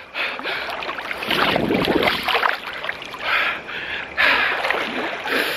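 Water splashing in irregular bursts as a person bathes in a cold mountain river, the loudest splashes about a second in and again around four seconds in.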